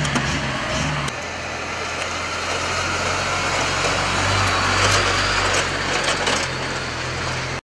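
Vehicle engine and road noise, a steady hum under a hiss, that changes character about a second in and cuts off abruptly near the end.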